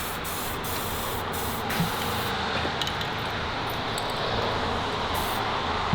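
Aerosol spray-paint can spraying in several short bursts, hissing on and off over a steady background hiss.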